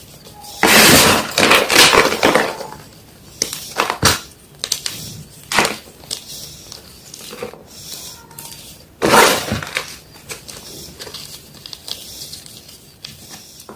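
Yellow gym chalk being crushed, crunching and crumbling in loud bursts: a long crunch about a second in, another about nine seconds in, and smaller crunches between them.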